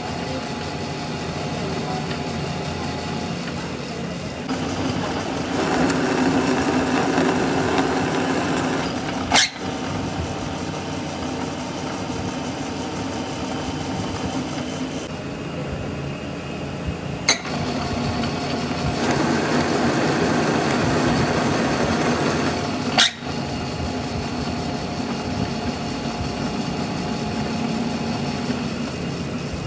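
A machine running steadily, with two louder, harsher stretches and three sharp clicks.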